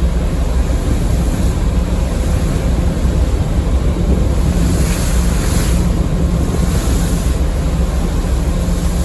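Car ferry under way at sea: a steady low engine drone under the rush of water along the hull, with wind buffeting the microphone.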